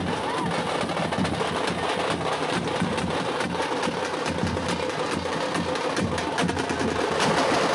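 Tamate frame drums beaten with sticks by a troupe, a fast, dense run of strikes.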